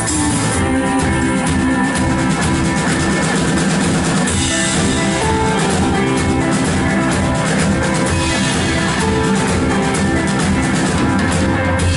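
A church worship band playing, with drum kit and guitar and a steady beat.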